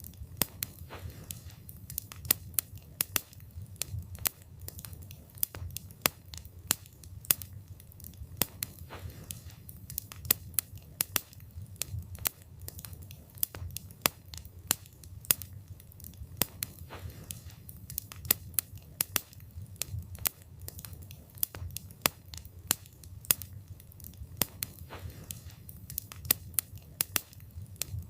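Wood fire burning, with irregular crackling and sharp pops of the burning wood over a low rumble of the flames.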